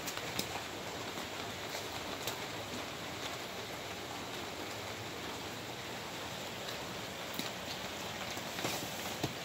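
Steady rain falling on a wet concrete patio and lawn, an even hiss, with a few sharper single taps near the start and again near the end.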